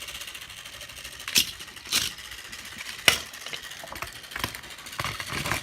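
A small motor running steadily, with a few sharp clicks or knocks over it.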